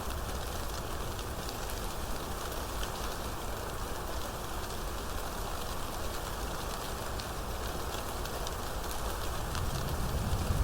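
Steady rainstorm: an even hiss of rain with many individual drops ticking sharply on top.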